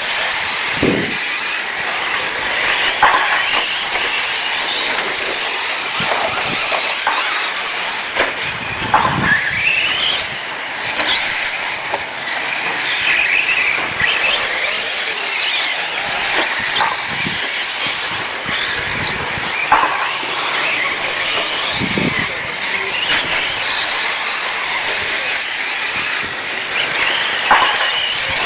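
A pack of battery-powered radio-controlled 4x4 racing trucks running laps, their electric motors whining up and down in pitch as they accelerate and slow. A steady hiss of tyres and drivetrains sits underneath, with occasional short knocks.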